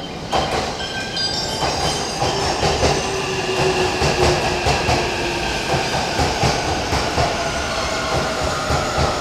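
E657 series electric limited express train rolling slowly past on the next track, its wheels knocking over rail joints in an uneven rhythm under a steady whine.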